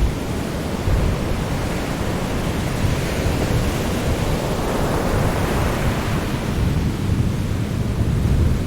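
Sea surf: a steady wash of waves with a deep rumble beneath, one wave swelling up through the middle and falling away.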